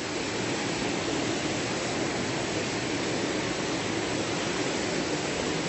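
Steady rushing of water from a river or waterfall, an even hiss with no breaks.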